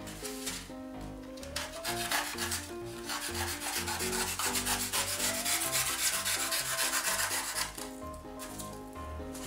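A craft knife cutting and sawing through a block of polystyrene foam, a rasping friction noise that thins out about eight seconds in. Background music with a melody plays throughout.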